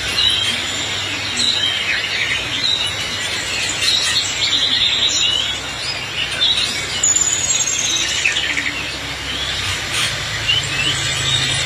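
Many caged songbirds at a bird shop chirping and singing together, a dense mix of short chirps, trills and whistles, over a steady low hum.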